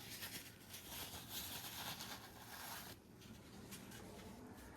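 Paper towel rubbing and wiping excess vulcanizing cement from the inside of a tubeless mountain bike tire: faint, irregular scrubbing that eases off about three seconds in.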